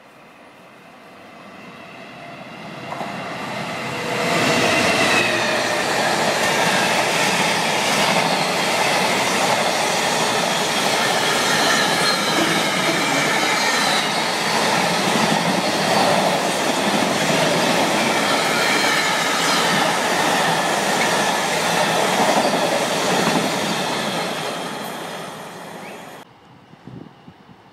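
Container freight train passing close by. The sound builds over about four seconds as the locomotive approaches, the wagons then run past loud and steady for some twenty seconds, and the sound fades before cutting off abruptly near the end.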